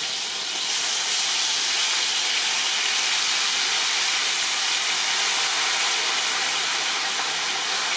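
Marinated chicken tikka pieces sizzling steadily in hot oil in a large pan.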